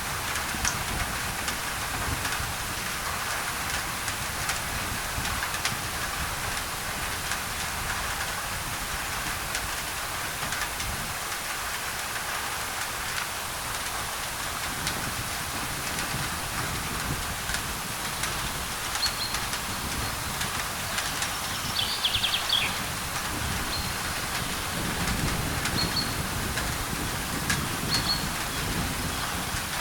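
Steady rain on a thin tin roof, with many sharp drop ticks, under an even white-noise hiss. Short high bird chirps come in over the last third, with one brief call that falls in pitch.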